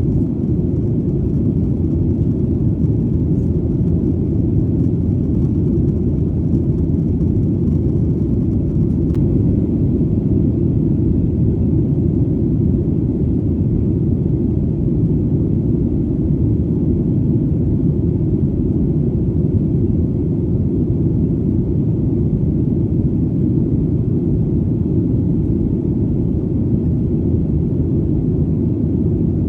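Airplane engine drone heard as a steady, deep, even rumble that does not change.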